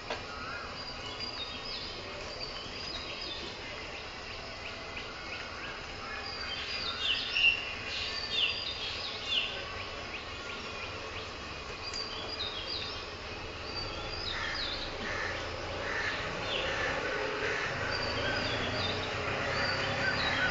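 Birds calling in short, repeated high chirps over a steady background hiss, with the calls busiest from about a third of the way in.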